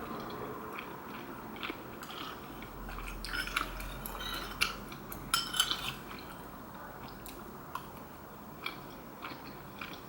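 Eating sounds: utensils clicking and clinking against a pot or bowl of rice cake soup at scattered moments, with soft chewing in between.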